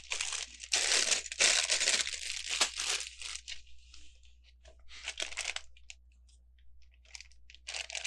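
A Lego parts bag being torn open and crinkled, then small clicks of pieces being handled, with more crinkling near the end.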